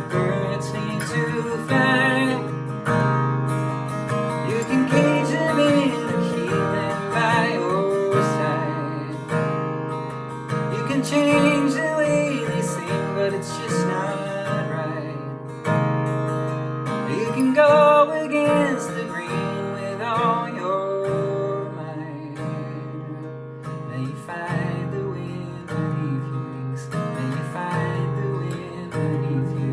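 Acoustic guitar playing an instrumental passage of a folk song, strummed chords under a moving melody line.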